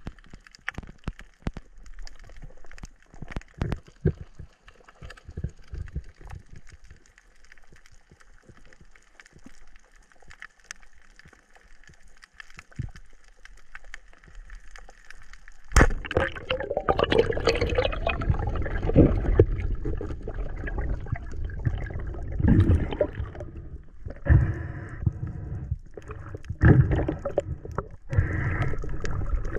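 Water sounds: faint scattered clicks and crackles, then about 16 seconds in a sudden, much louder stretch of splashing and gurgling water that surges irregularly.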